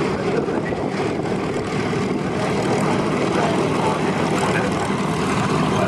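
Piston-engined propeller aircraft flying a display pass, its engine drone loud and steady.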